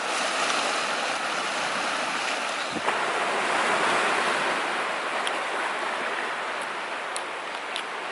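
Wood fire burning in a fire pit, a steady hiss with a few sharp crackles near the end.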